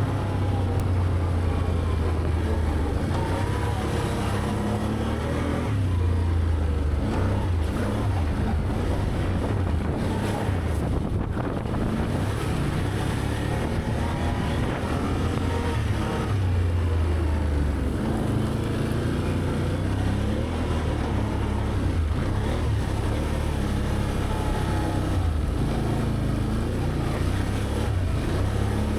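Can-Am Outlander ATV's V-twin engine running steadily on a trail ride, its pitch slowly rising and falling with the throttle.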